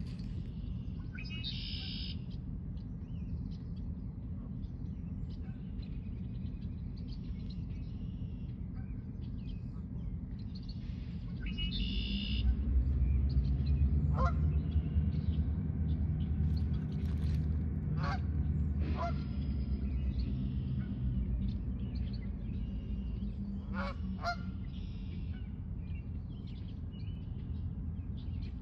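Short bird chirps and a few brief calls over a steady low rumble that swells through the middle and is the loudest sound.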